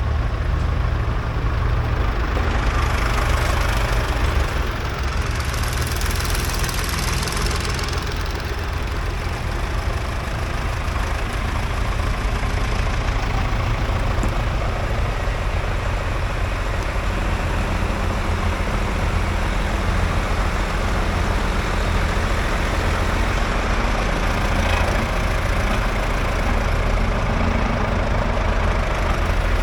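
Tractor engine running steadily with a deep low rumble, and a stretch of higher hiss a few seconds in.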